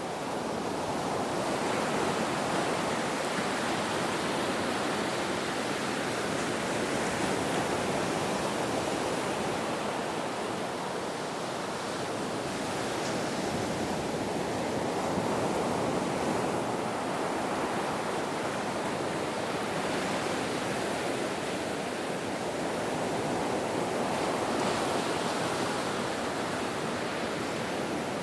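Ocean waves washing on a shore, a steady rushing surf that swells and falls back slowly every several seconds.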